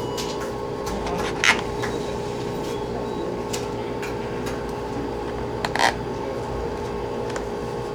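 Steady hum of a fan or air conditioner, with a few short clicks and rustles from people eating. The two loudest come about a second and a half in and near six seconds.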